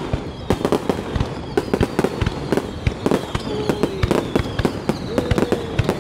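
Fireworks going off in a dense, irregular barrage of sharp bangs and pops, several each second.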